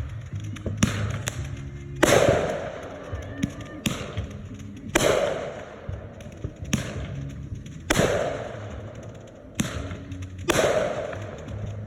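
Consumer fireworks going off one after another, about eight sharp bangs a second or two apart, each followed by a long fading rush of noise, as from mortar shells bursting.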